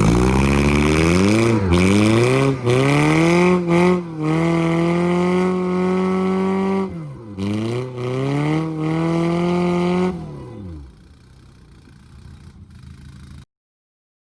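Honda CR-V's four-cylinder engine revved hard: the pitch climbs quickly and is held high, dips about seven seconds in, climbs and holds again, then falls away about ten seconds in.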